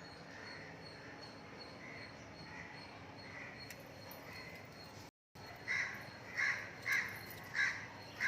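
A bird calling repeatedly: faint calls about twice a second at first, then, after a brief gap, five loud calls close together.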